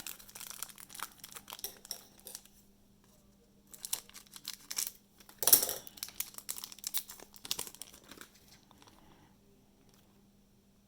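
Crinkling and tearing of a foil trading-card pack wrapper being opened and handled, in scattered bursts. There is a short lull about two and a half seconds in, then denser crinkling with one sharp loud crackle about five and a half seconds in.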